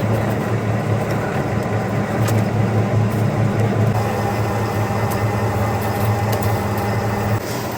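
Factory machinery running with a steady low hum that cuts off near the end.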